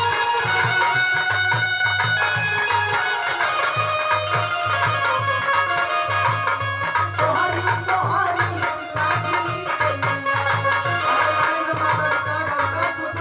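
Nirgun devotional folk song accompaniment: held melody notes over a steady, regular hand-drum beat, with a wavering melodic line entering about halfway through.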